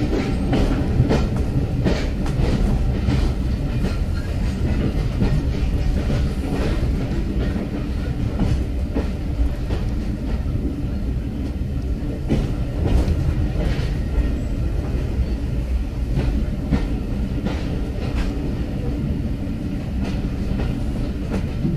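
Heritage railway passenger train running, heard from inside the carriage: a steady low rumble with frequent irregular wheel clicks over the track.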